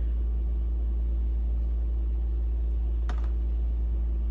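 A steady low hum with a single light click about three seconds in.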